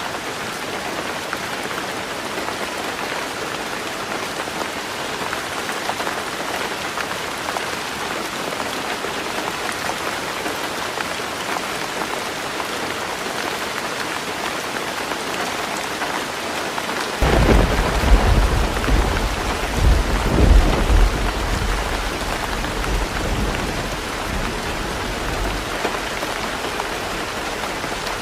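Heavy rain falling steadily on a tin roof. A little over halfway through, a thunderclap breaks in suddenly and rumbles with a couple of louder swells before fading away over several seconds.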